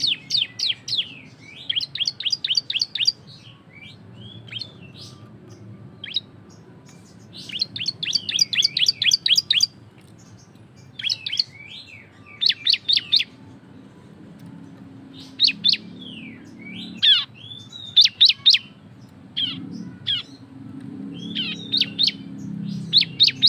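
A ciblek (prinia) singing loudly in its rapid 'ngebren' style: bursts of sharp, high, quickly repeated chirps, several notes a second, with short pauses between the bursts.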